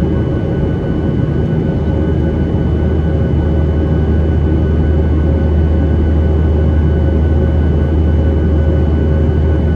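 Boeing 737-800 cabin noise: the CFM56 jet engines and airflow give a steady, loud low drone with faint steady whining tones above it.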